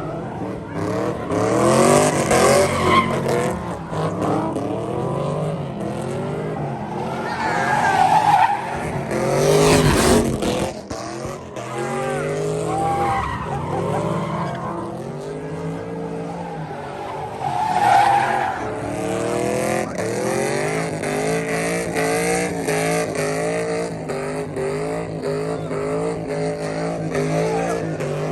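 A car drifting: the engine revs up and down over and over while the tyres screech and skid, with several loud surges.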